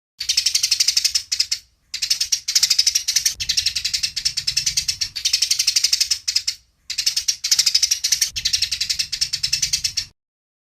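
Eurasian tree sparrows giving their fast, ratchet-like fighting chatter: five runs of rapid repeated high chirps separated by short breaks, stopping about ten seconds in.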